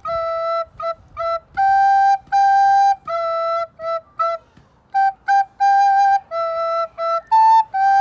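Soprano recorder playing a simple melody on the notes G, E and A: a string of separately tongued notes, short and long, moving mostly between G and E, with one brief higher A shortly before the end.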